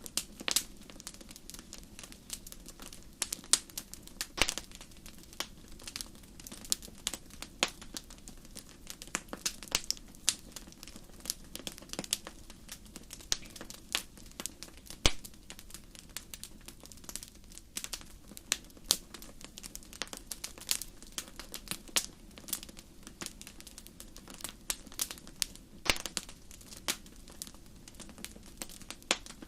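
Wood fire burning in a fireplace, crackling steadily with irregular sharp pops of varying loudness over a faint steady low background.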